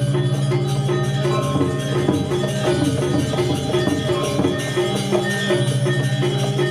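Balinese gamelan playing: bronze metallophones ring out fast repeating figures over a sustained low hum of gongs, with drums underneath.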